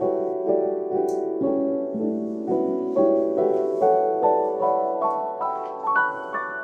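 Background piano music: a gentle run of evenly paced notes, climbing higher near the end.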